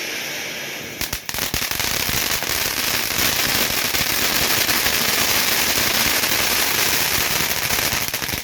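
Firework hissing, then breaking about a second in into dense, rapid crackling that keeps up for several seconds and starts to thin near the end: the crackling finale of a ground firework.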